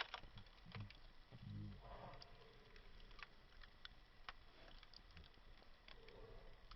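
Faint campfire crackle: burning wood giving scattered sharp pops and clicks at irregular intervals. A short low hum sounds about one and a half seconds in.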